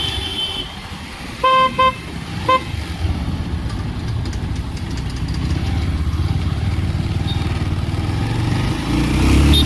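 Motorcycle riding with a steady engine and road rumble that swells near the end. A horn gives two short honks about a second and a half in and a third about a second later.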